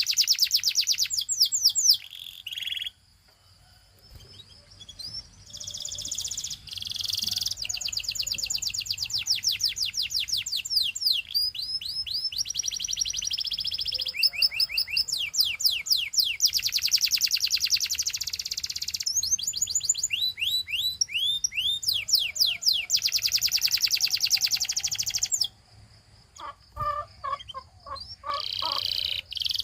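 Domestic canary singing: long, fast trills of rapidly repeated notes and runs of downward-sliding notes, broken by two short pauses, one about three seconds in and one near the end.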